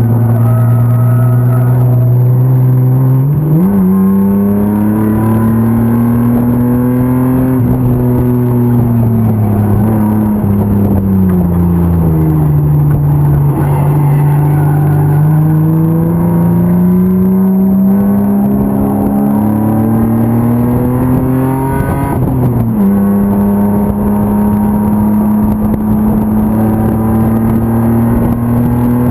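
BMW E36 325 race car's M50 inline-six engine under racing load, its pitch climbing and falling with throttle through the corners. The pitch jumps up sharply about three seconds in and drops sharply around twenty-two seconds in, where gears are changed.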